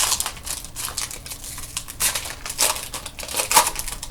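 Wrapper of a trading card pack crinkling and crackling as it is torn open and handled, in a run of irregular crackles that are loudest about two seconds in and again near the end.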